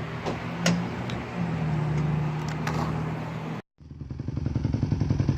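A motor vehicle's engine running with a steady low drone and road noise, then, after a sudden cut, an engine running with an even, fast putter that grows louder.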